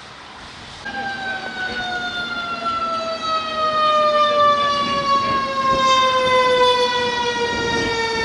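Fire engine siren sounding one long, loud tone that starts about a second in and slowly falls in pitch.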